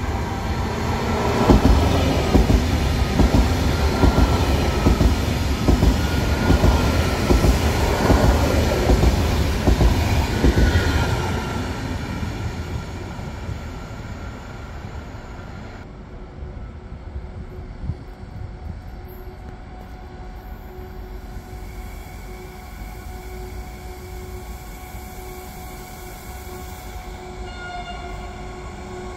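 High-speed electric train rushing through the station, with loud rumbling wheel-and-rail noise and a rush of air as it passes. It fades away after about ten seconds. A quieter steady rumble of another train follows.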